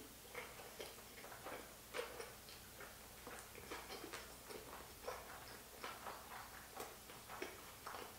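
A person chewing a large mouthful of sushi roll with the mouth closed, close to the microphone: quiet, irregular wet clicks and smacks, one to three a second.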